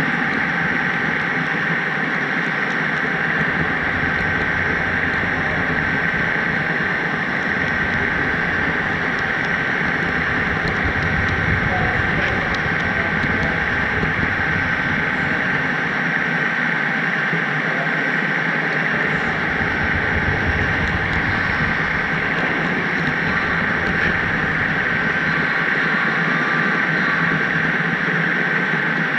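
HO scale model train running on the layout, heard from a camera riding the caboose: a steady rolling rumble of wheels on track with a thin, high, steady whine over it.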